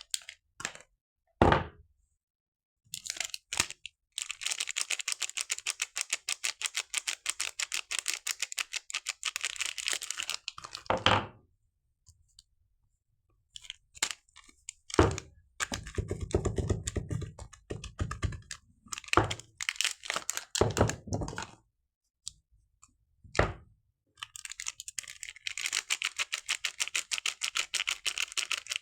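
Soap packaging handled and unwrapped by hand: long stretches of rapid, fine ticking, a handful of single soft thuds, and a short spell of crinkling in the middle.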